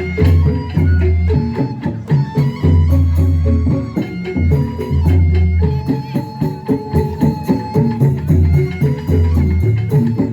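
Live instrumental band music in a traditional folk style, with a busy percussion beat, deep sustained bass notes and held melody tones.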